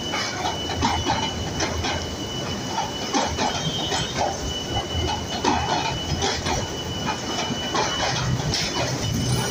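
Bangladesh Railway passenger coaches rolling past close by, their wheels clattering irregularly over the rail joints, with a thin, steady, high squeal throughout.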